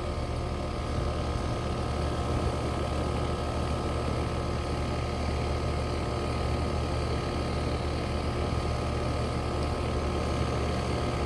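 Outdoor air-conditioner condenser units running steadily, with the fan and compressor giving a constant low hum under a few steady higher tones.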